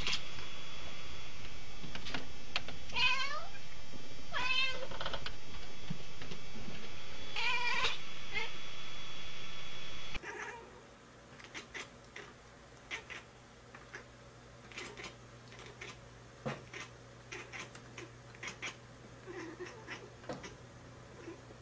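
A domestic cat meowing three times, each call wavering in pitch, over a steady hiss. About ten seconds in, the sound drops to a quiet stretch with scattered faint clicks and taps.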